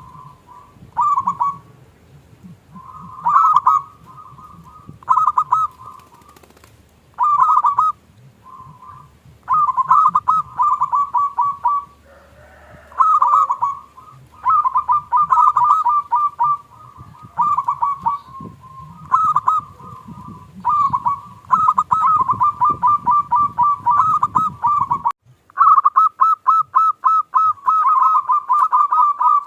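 Zebra doves (perkutut) cooing: bursts of quick staccato coos, one after another every second or two, running almost without a break by the end. A low background rumble cuts off suddenly about 25 seconds in.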